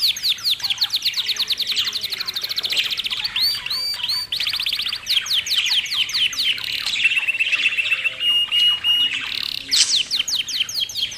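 Budgies chirping in fast runs of short sweeping notes, several a second. For about two seconds after the middle, a steady whistled note is held under the chirps.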